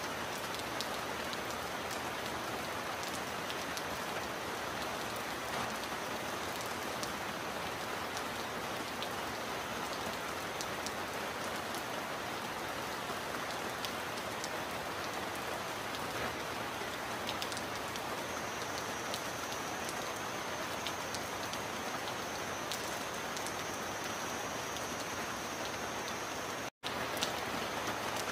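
Steady heavy rain on a metal roof, with scattered sharper drop ticks. The sound cuts out for an instant about a second and a half before the end.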